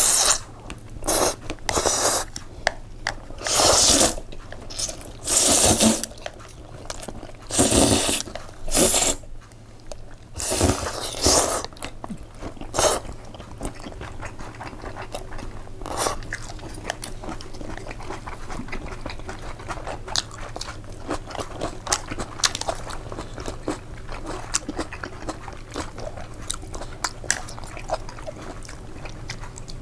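Close-miked eating: a person chewing and crunching mouthfuls of a vegetable-laden pasta. There are loud crunching bursts through roughly the first dozen seconds, then softer, steady chewing with small wet clicks.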